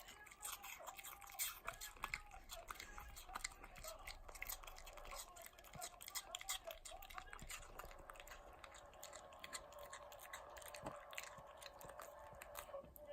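A dog chewing apple pieces: a quick, irregular run of crisp crunches and wet chomps.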